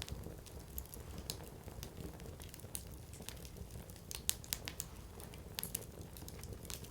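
Burning firewood crackling, with irregular sharp snaps and pops over a low steady rumble; the loudest snaps come about four seconds in.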